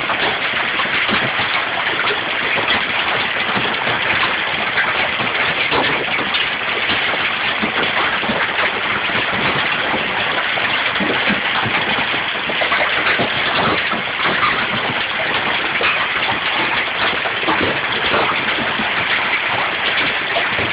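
Hail falling steadily, a dense, continuous patter of many small impacts.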